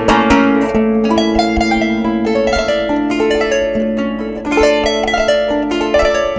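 Kanun, the Turkish plucked zither, playing a melody: a run of plucked notes that ring on and step from pitch to pitch.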